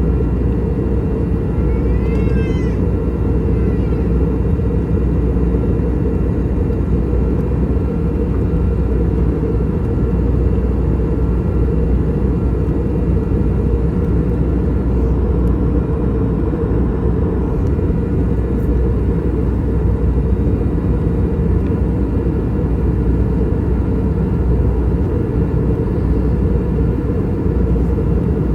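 Steady cabin drone of an Airbus A321 in flight: a loud low rumble of airflow and its IAE V2533 turbofan engines, with faint steady whining tones above it. About two seconds in, a short high squealing call rises and falls over it.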